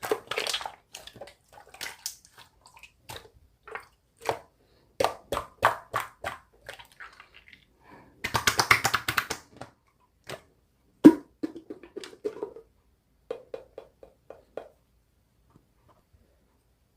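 Hands kneading and pressing slime: a run of sticky clicks, pops and squelches, with a denser stretch of crackling squishing about eight seconds in and one sharp pop a couple of seconds later. The sound stops for the last two seconds.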